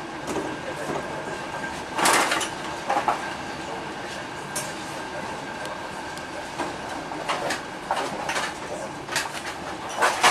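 Passenger train running, heard from inside: a steady rolling rumble with a faint continuous whine, and short sharp clacks and rattles every second or so at irregular intervals.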